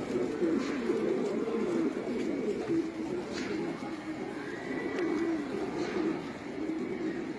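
A flock of domestic pigeons cooing continuously, many overlapping low coos.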